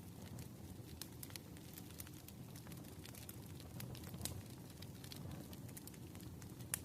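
Crackling fire with irregular sharp pops over a steady low rush, as in a rain-and-fireplace ambience track; one sharper pop comes near the end.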